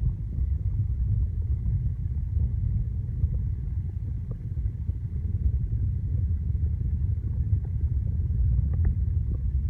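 Steady low rumble of a car driving, with a few faint ticks near the end.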